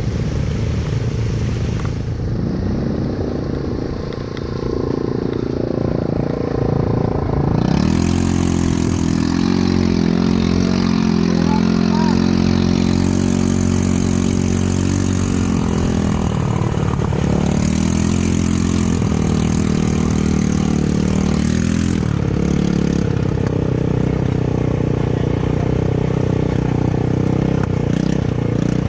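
ATV engine running under throttle. It revs up about a quarter of the way in, then holds mostly steady, easing off briefly around the middle and again about three-quarters through.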